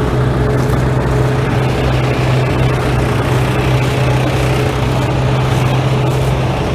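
An engine-driven machine running steadily at constant speed, with an even low hum.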